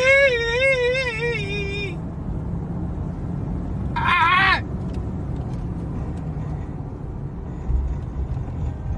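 Steady low rumble of a vehicle on the road, with a long wavering high-pitched wail at the start and a shorter one about four seconds in that drops away at its end.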